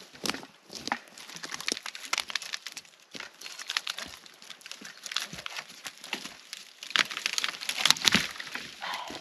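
Irregular crackling and snapping, a dense run of small cracks, loudest about eight seconds in.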